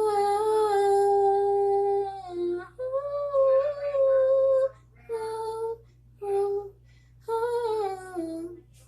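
A woman's voice singing unaccompanied, wordless and hummed: a long held note of about two seconds, then a second held phrase, then three shorter notes, the last one falling in pitch.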